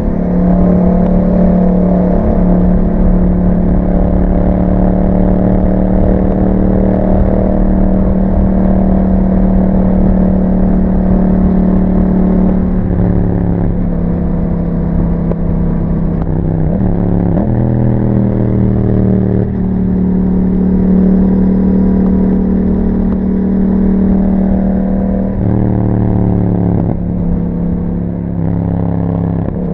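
2021 Yamaha MT-07's parallel-twin engine running steadily under way through an Akrapovic exhaust with a dB killer fitted. The engine note drops and climbs back several times in the second half.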